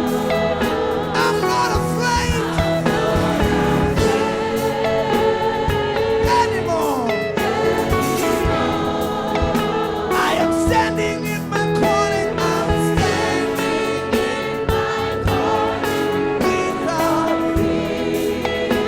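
Live gospel worship music: a band with guitar and drums playing under sung voices.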